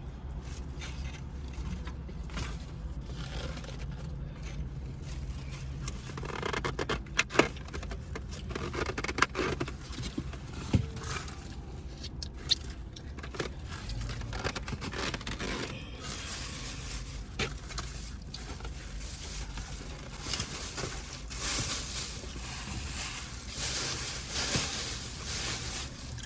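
Food packaging being handled: scraping and crinkling of wrappers and containers with scattered sharp clicks and taps, busiest after about six seconds.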